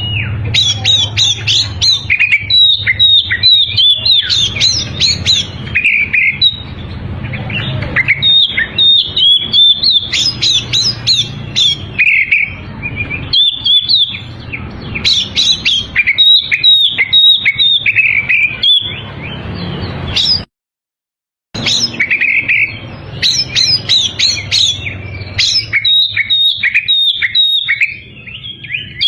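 Oriental magpie-robin (kacer) singing in full voice: a fast, unbroken run of varied whistles and chirps over a steady low hum. The song breaks off completely for about a second two-thirds of the way through.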